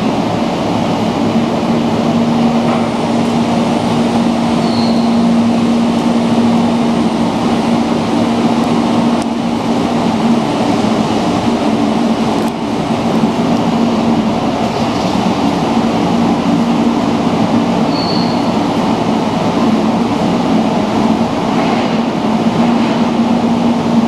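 Sakurajima ferry under way: a steady engine drone with a held low hum and an even rushing noise.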